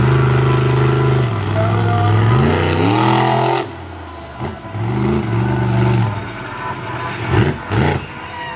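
A large vehicle engine running steadily, then revving with its pitch rising about two and a half seconds in. Nearly four seconds in the sound drops off abruptly, and shorter engine revs follow.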